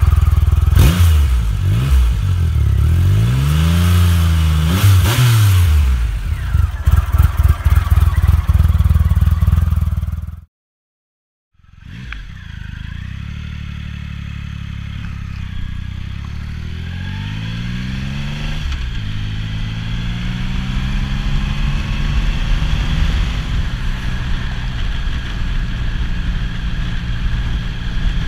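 Triumph Rocket 3 Roadster's 2.3-litre three-cylinder engine, warming up after a cold start from months of storage, revved up and down several times through its stock exhaust. After a brief break it runs again, its revs climbing for several seconds, dropping, then holding steady.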